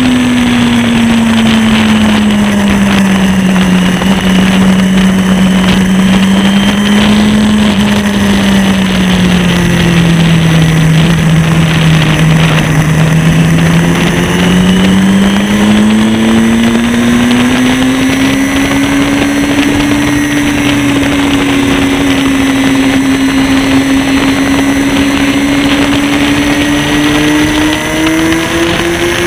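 Sportbike engine running at high revs, heard from the bike itself with wind rushing over the microphone. The engine note sags through the first half, dipping lowest around the middle, then climbs steadily and keeps rising near the end as the throttle is held through the corners and down the straight.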